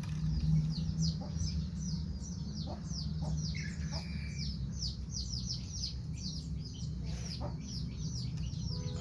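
Birds chirping: a quick run of short, high, downward-sliding chirps, several a second, over a steady low hum.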